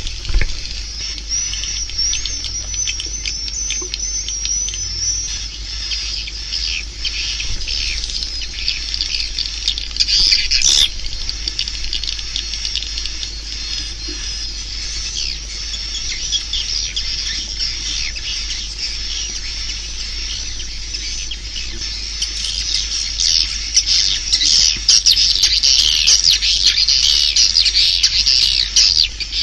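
Edible-nest swiftlet calls, a recording of the kind played from tweeters in swiftlet houses: a dense, continuous chatter of high twittering chirps that grows busier and louder over the last several seconds, over a faint steady low hum.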